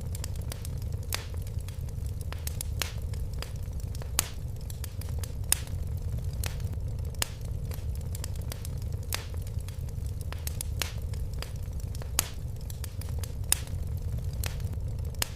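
Fireplace fire crackling: irregular sharp pops and snaps, roughly two a second, over a steady low rumble of the flames.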